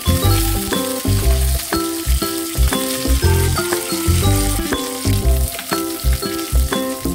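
Oil sizzling as curry leaves, garlic and cashews fry on a low flame in a nonstick pan, stirred with a silicone spatula. Background music with a plucked-sounding melody plays over it.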